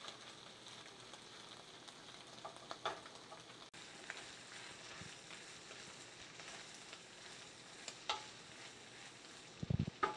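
Pieces of vegan sausage and chik'n frying with a faint, steady sizzle in a skillet as a wooden spatula stirs and scrapes them against the pan. There are a few louder scrapes, and a thump near the end.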